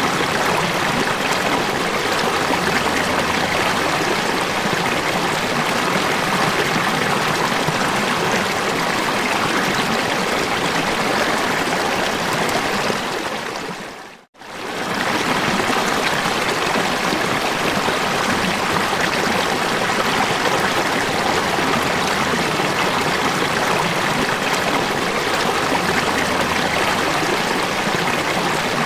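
Falling water rushing and splashing steadily, like a stream or small waterfall. About halfway through it fades quickly to near silence and swells straight back, as at the seam of a looped recording.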